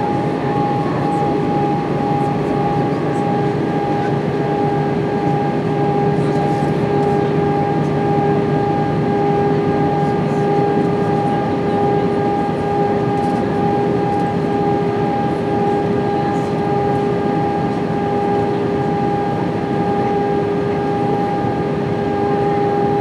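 Steady cabin noise inside an Airbus A320-232 in flight: a constant rush of airflow with the hum of its IAE V2500 turbofan engines, holding two steady tones.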